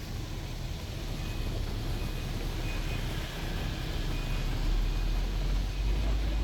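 Road traffic heard from on board a double-decker tour bus: a steady low engine and road rumble that grows louder about halfway through, with faint short high beeps now and then.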